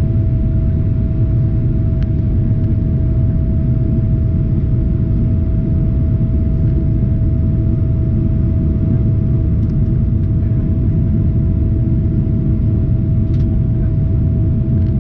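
Steady low rumble of a Boeing 777-300ER jet airliner, with a constant mid-pitched hum over it and a few faint clicks.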